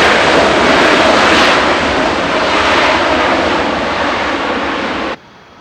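A heavy Boeing 777 airliner's jet engines at takeoff power, a loud steady rushing roar that eases slightly, then cuts off abruptly about five seconds in.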